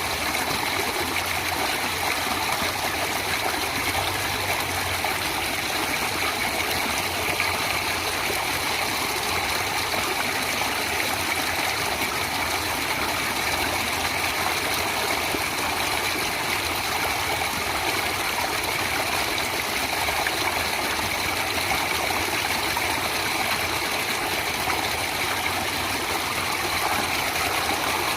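Natural stream water flowing steadily, an even unbroken rush of water.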